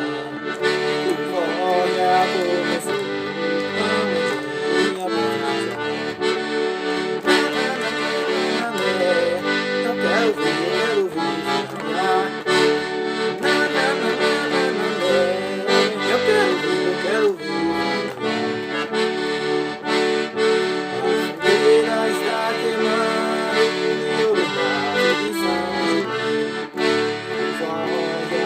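Accordion playing a forró instrumental break: held chords under a running melody, with percussion striking through it.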